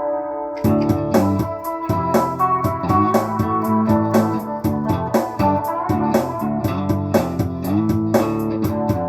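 Instrumental song intro led by guitar. A held chord rings, then about half a second in the full band comes in with drums, bass and guitar playing a steady beat.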